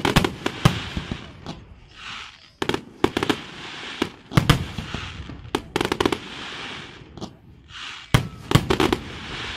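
Aerial firework shells bursting in a run of sharp bangs, several coming in quick clusters, with hissing crackle between them. The heaviest bangs fall about halfway through and again near the end.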